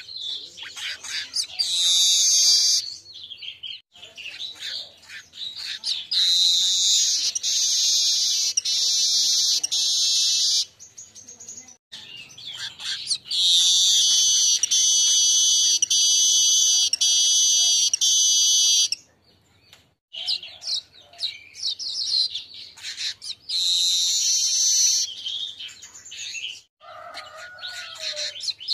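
Male weaver bird (manyar) singing: runs of quick chattering chips that lead into long, loud, wheezy buzzing phrases, the longest holding for about four to five seconds, repeated several times.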